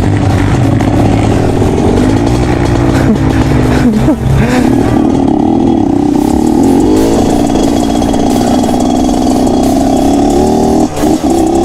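Motorcycle engine running under load as the bike is ridden on a dirt track, its pitch dropping and climbing again twice in the first few seconds, then holding fairly steady, over a low rumble of wind on the microphone.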